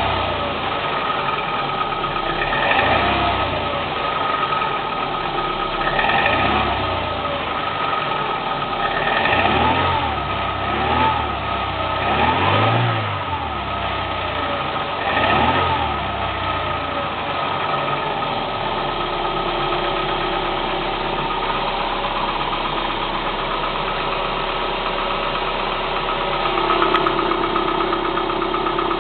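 Kia Spectra 1.6 four-cylinder petrol engine revved in about six short throttle blips, each rising and falling back, then settling to a steady idle for the last ten seconds or so.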